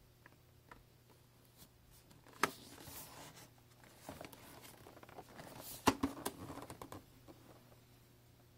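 Hands handling packaging: soft rustling with scattered small clicks, and two sharp taps or clicks, one about two and a half seconds in and a louder one about six seconds in.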